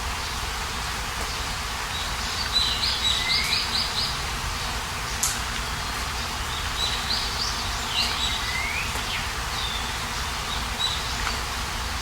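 A small songbird singing two phrases of quick repeated high notes, each ending in a sweeping note, with a few short calls later, over a steady background rush.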